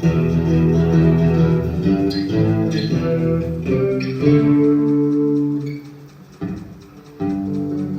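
Bacchus Universe Series Stratocaster electric guitar played through a mixer during a sound check: picked notes and chords, a held chord ringing out about four seconds in and fading, then fresh chords struck near the end.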